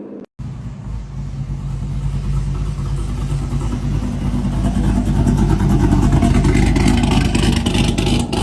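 Chevrolet Corvette C7 Z06's supercharged V8 running at a fairly steady pitch and growing steadily louder for several seconds, after a brief dropout to silence just after the start.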